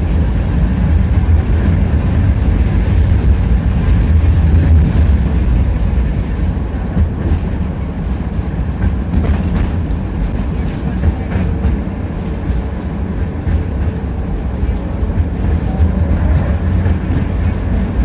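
Tram running along its tracks, heard from inside the passenger car: a steady, loud low rumble of wheels on rails with a few faint clicks, easing slightly about a third of the way in.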